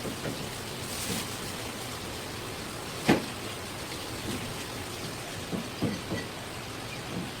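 Short knocks of a knife on a cutting board while a fish is cut, the loudest about three seconds in and a small cluster near the end, over a steady hiss.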